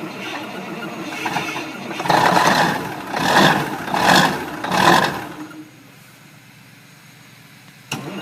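Diesel engine running after a cold start, revved up in four quick surges, then falling away to a much quieter stretch. An engine sound cuts in abruptly near the end.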